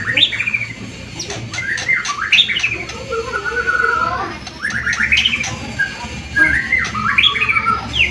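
White-rumped shama (murai batu) in full vigorous song: repeated phrases of rising whistles, fast trills and harsh chattering notes with short pauses between them. A steady low hum runs underneath.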